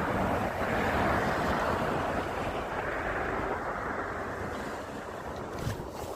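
Rain-swollen water rushing through a culvert: a steady rushing noise that eases slightly toward the end, with a few faint clicks near the end.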